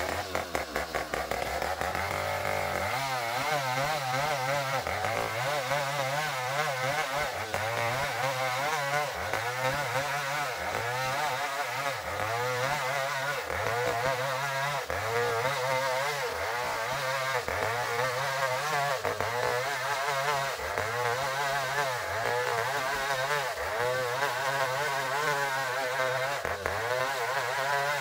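Engine-driven saw cutting ulin (ironwood), its engine pitch rising and falling in a steady rhythm about once a second as it works through the hardwood.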